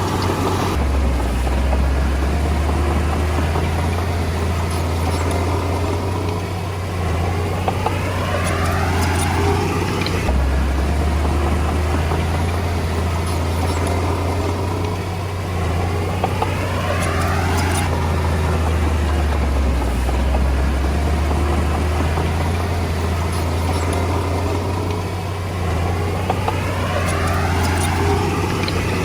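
Komatsu D20A bulldozer's diesel engine running steadily under load. Its pitch rises in a sweep about every nine seconds, three times, with a few sharp metallic clanks.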